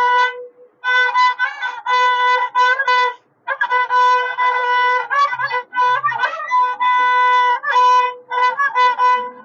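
Coconut-shell violin (chiratta violin) with a glued plastic face in place of leather, bowed in short phrases, mostly on one held note with quick runs and slides to other notes between brief pauses.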